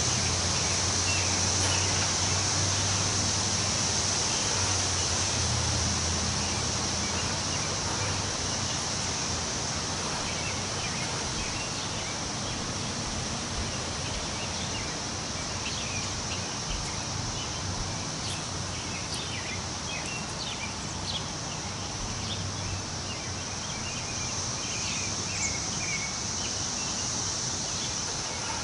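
Wind rustling through the leaves of forest trees, a steady hiss, over a continuous high-pitched insect drone. Short bird chirps are scattered through the second half, and a low rumble fades out after about seven seconds.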